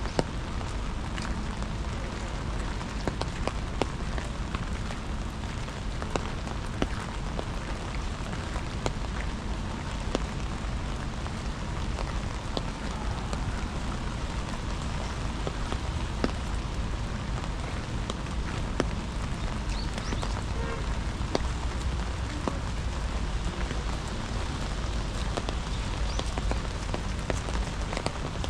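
Steady rain falling, with many individual raindrops ticking sharply and irregularly close by.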